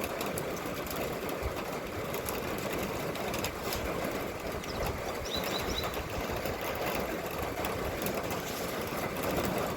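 Steady rain, an even hiss with fine faint ticks. A short run of three high chirps comes about five and a half seconds in.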